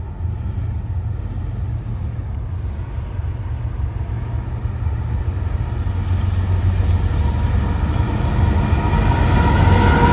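Train's low rumble that builds over the second half, with a steady whine coming in near the end as it grows louder.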